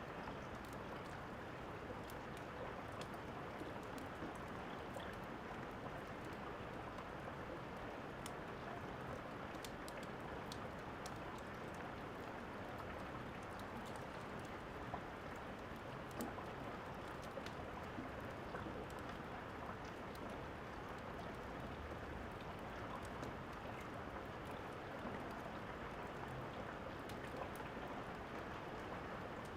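Steady rain, an even hiss, with the scattered crackles and pops of a fireplace over it; two pops about halfway through stand out a little louder.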